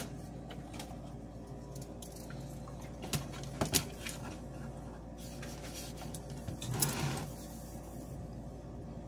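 Light clicks and taps of tools and wire being handled while soldering a power wire to a model locomotive's power strip, over a steady low electrical hum, with a short hiss about seven seconds in.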